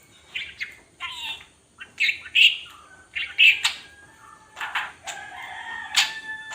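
Pet lovebird giving a string of short, raspy chirps and chattering calls, several in quick succession, with sharper clicks and a faint steady high tone in the latter half.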